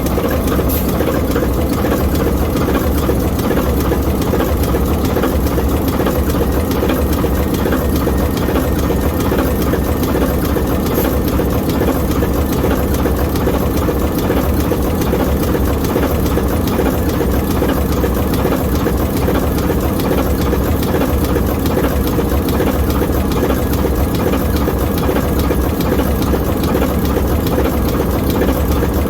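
ALCO 539T turbocharged inline six-cylinder diesel prime mover of an ALCO S4 locomotive, running steadily.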